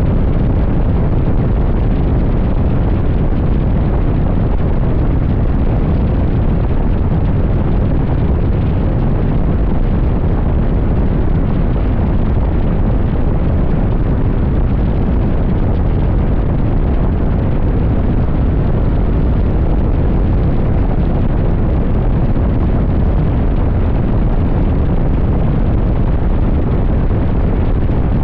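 Steady loud wind buffeting on the microphone of a motorcycle moving at highway speed, a deep even rumble that never lets up.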